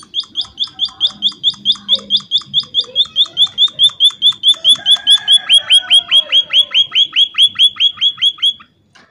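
An emprit (munia) calling in a long, fast, even series of sharp chirps, about five a second. About halfway through the chirps change shape, becoming rising upsweeps, and the series stops abruptly near the end.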